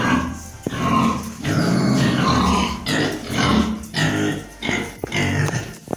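Hungry pigs squealing and grunting in a rapid run of loud calls, begging for food.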